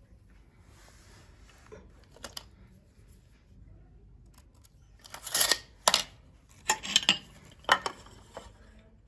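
A short scrape, then a run of sharp clicks and knocks from small hard parts being handled or cut during the build, grouped between about five and eight seconds in, with one faint click earlier.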